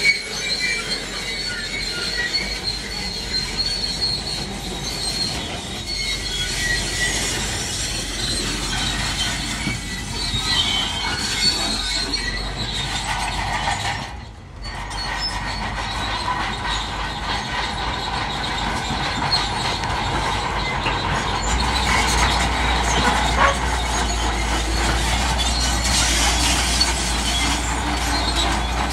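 Crawler bulldozer working, its steel tracks squealing and clanking over an engine's steady running. The squeal is strongest early on, and the sound drops out briefly about halfway before the tracks and engine carry on.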